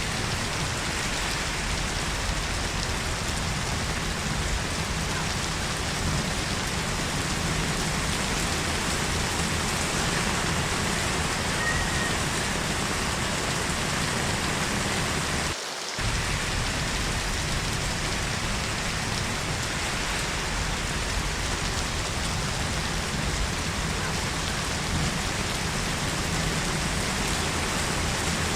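Heavy rain falling in a steady, even hiss, with a brief drop in level about halfway through.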